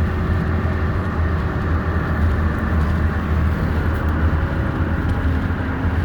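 Steady drone of a vehicle driving at road speed, heard from inside the cab: a deep, even engine hum with road noise over it.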